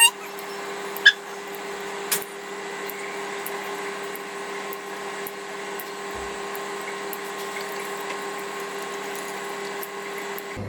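A small electric motor running steadily with a constant hum and whine, with a couple of short clicks in the first two seconds.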